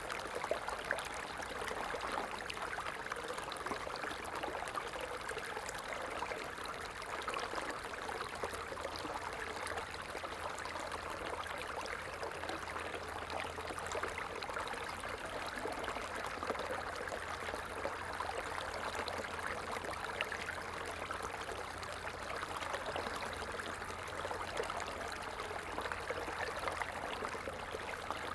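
A stream flowing steadily, a constant babble of running water.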